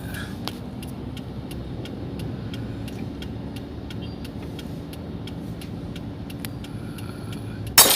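Car engine idling inside the cabin, a steady low rumble with a regular light ticking over it. Near the end comes a sudden loud rush of noise.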